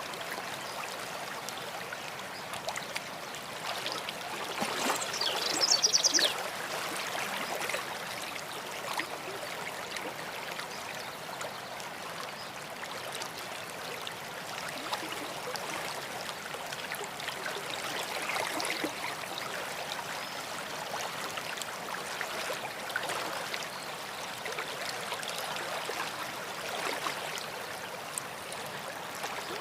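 A stream running steadily over stones, with a songbird giving a short burst of rapid high notes about five seconds in, the loudest moment; fainter bird calls come and go over the water.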